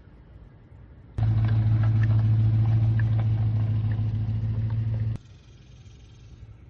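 A steady low mechanical hum, like a motor running, starts abruptly about a second in and cuts off sharply about four seconds later.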